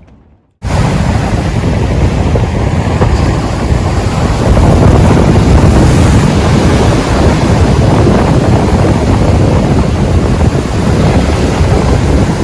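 Strong wind buffeting the microphone over the rush of sea surf: a loud, rumbling, gusting noise that cuts in abruptly about half a second in.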